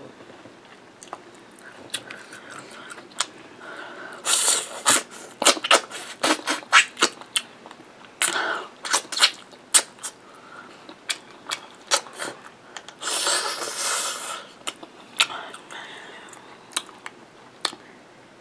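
Close-up chewing and lip-smacking as a mouthful of curried meat and flatbread is eaten: a string of wet clicks and smacks, loudest in bursts around 4, 8 and 13 seconds in.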